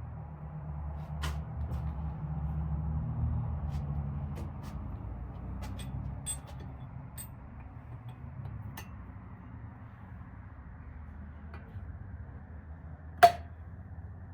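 Scattered light clicks and clinks of small metal parts being handled over a steady low hum, with one sharp metallic clink a little before the end.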